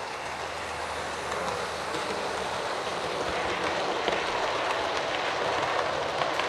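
00 gauge model train running along the track, a steady whirring rumble of motor and wheels on rail that grows louder as it comes closer, with a few light clicks in the second half.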